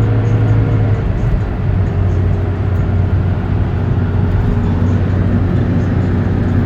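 Vehicle engine running steadily with road noise. The engine note drops slightly about a second in, then holds steady.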